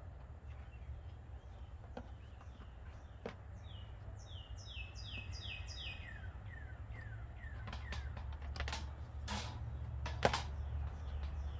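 A wild bird singing a quick run of about eight descending chirps about halfway through, followed by a few lower descending notes. A few sharp clicks and a steady low rumble are also heard.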